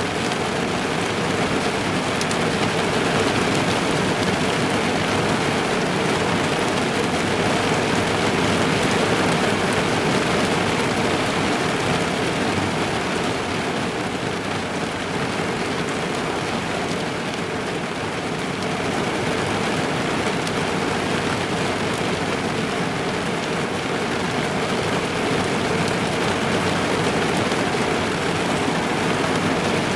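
Steady rain drumming on a car's roof and windows, heard from inside the car, with a dense, even patter and a slight easing about halfway through.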